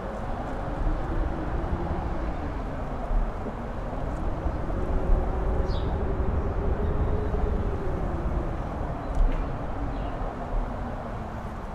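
Strong wind on a mountaintop, rumbling on the microphone and swelling in gusts, with a faint howling tone that rises and falls slowly.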